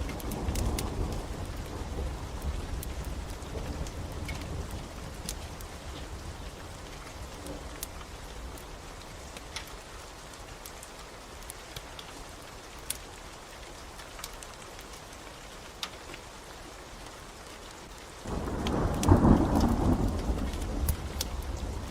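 Steady rain with thunder: a low rumble fades over the first few seconds, and a loud roll of thunder breaks in about 18 seconds in. Scattered sharp pops from a crackling wood fire sound through the rain.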